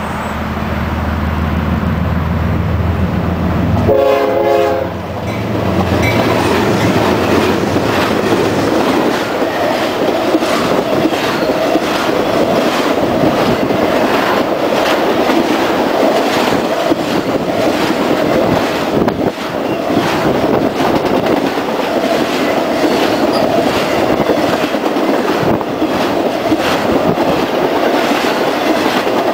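CSX intermodal freight train passing close: a deep diesel locomotive rumble at first, a short horn sound about four seconds in, then a long string of trailer-on-flatcar cars rolling by with steady wheel noise and clickety-clack over rail joints.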